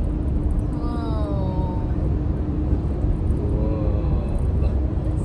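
Steady low rumble of road and engine noise inside a moving car's cabin, with a faint steady hum.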